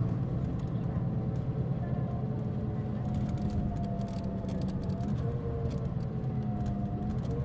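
Mitsubishi Fuso Aerostar city bus under way, heard from inside: a steady engine drone with a whining tone above it that shifts in pitch about five seconds in, and light rattling clicks throughout. The bus is known for making considerable abnormal noise.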